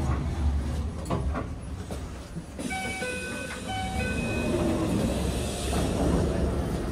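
Enoshima Electric Railway (Enoden) train running, a steady rumble of wheels and motor. About three seconds in, a short run of alternating two-pitch electronic tones sounds for about a second and a half.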